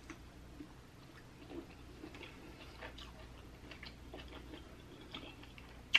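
Faint chewing of a sauced shrimp: soft, wet mouth clicks and smacks at irregular intervals.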